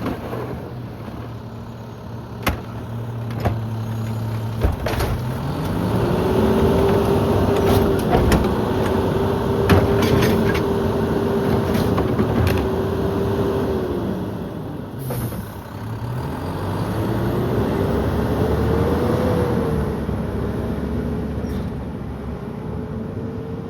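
Mack LEU garbage truck with a McNeilus rear-loader body running its packer: the engine speeds up under hydraulic load with a steady whine that holds for about eight seconds, drops away, then climbs again for a second stroke. Several sharp knocks and clanks sound in the first half, typical of the packer blade and garbage being compacted.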